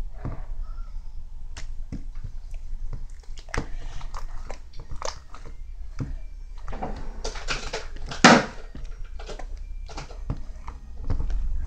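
Slime being squeezed and poked by hand, a run of small irregular clicks, crackles and squelches, with one louder squelch about eight seconds in.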